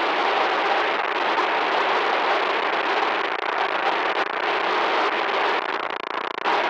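Loud, steady static hiss, with no tone in it, that crackles and drops out briefly near the end.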